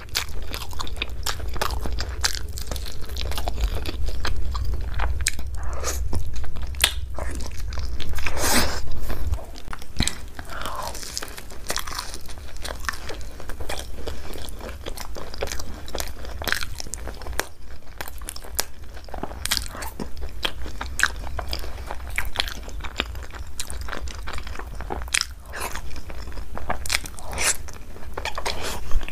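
Close-miked eating: a person biting and chewing spicy chicken curry with luchi, with many wet, sharp mouth clicks and smacks.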